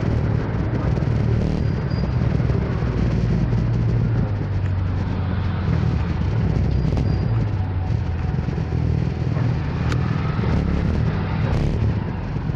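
Motor scooter riding in city traffic: its small engine runs steadily under a dense, continuous wash of surrounding traffic noise.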